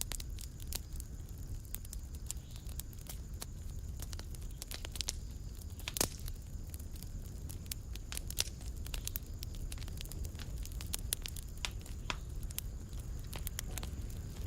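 Wood fire burning in a fireplace: a steady low rumble of the flames with irregular sharp crackles and pops, the loudest pop about six seconds in.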